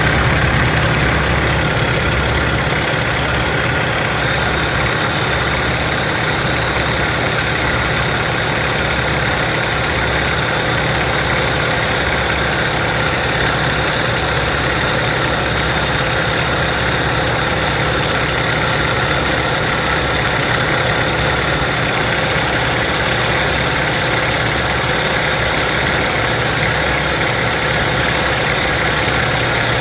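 Nanchang CJ-6's nine-cylinder radial aero engine running steadily at an even, unchanging speed, with a low throb.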